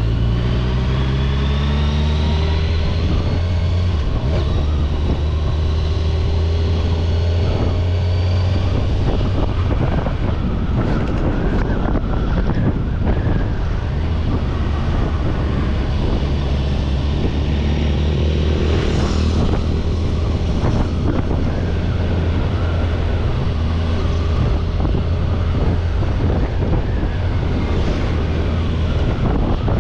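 Kawasaki Ninja 1000SX inline-four engine running under way on the road, its note rising as it accelerates over the first several seconds, steadier through the middle, and rising again about two-thirds of the way through, under a constant rush of road and wind noise.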